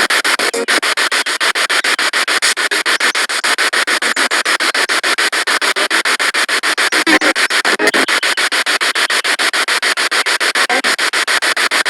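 Spirit box radio sweeping rapidly through stations: a steady, rapidly chopped hiss of static with brief snatches of broadcast sound caught between the pulses.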